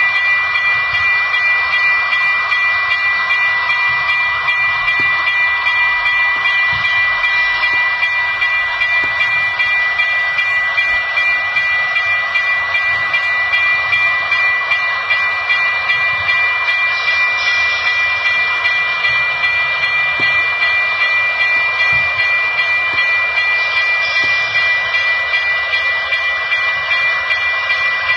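Steady train running sound with a constant high whine, holding the same level throughout.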